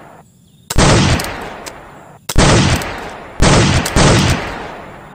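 Three loud gunshot sounds from a toy gun firing at targets, the first under a second in and the last two about a second apart. Each starts sharply and fades away over about a second.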